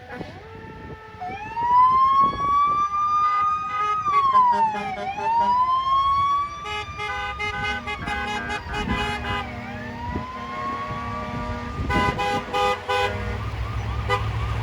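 Emergency vehicle siren wailing in slow sweeps, rising for a few seconds and falling, about every four seconds. In the second half, short honks from vehicle horns join in.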